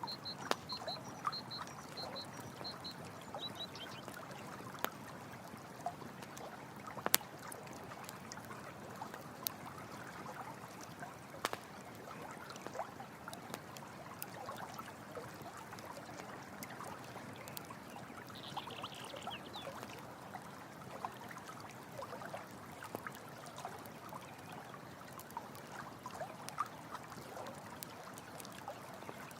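Running stream water flowing steadily, with a campfire crackling over it in sharp, scattered pops. A quick series of short high chirps comes in the first three seconds, and a brief high call about two-thirds of the way through.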